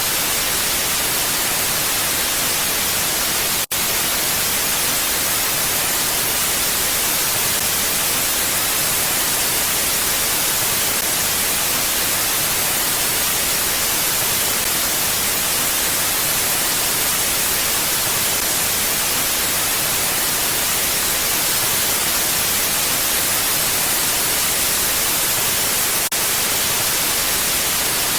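Steady, unvarying hiss of wind ambience, heavier in the high end than the low, with a momentary cut-out about four seconds in.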